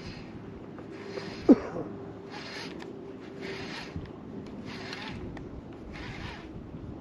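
Small water waves slapping against a drifting fishing boat's hull, a regular swish about once a second. A sharp short knock about one and a half seconds in is louder than everything else.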